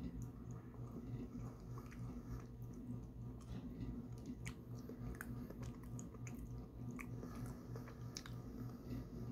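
Close-up chewing of soft taro fudge, with short wet mouth clicks at irregular intervals. A steady low hum runs underneath.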